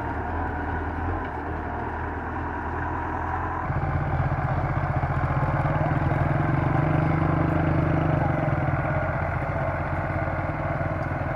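Belarus 510 tractor's diesel engine running steadily; about four seconds in its revs rise and it gets louder, then holds at the higher speed.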